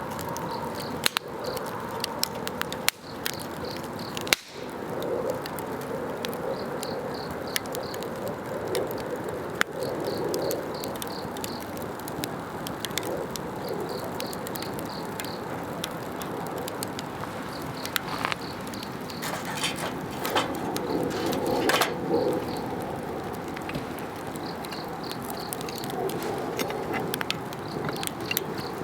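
Wood campfire burning with frequent sharp crackles and pops over a steady low rush of flame. Insects chirp in repeated pulsed trills behind it.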